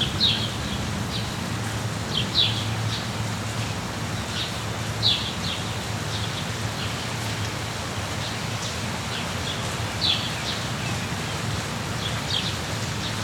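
Steady rain hiss with a songbird giving short, falling chirps every one to few seconds, sometimes two in quick succession. A low rumble sits under it, strongest in the first half.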